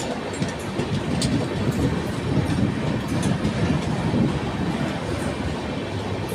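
Passenger train running on the rails: a steady low rumble with scattered short metallic clicks and rattles.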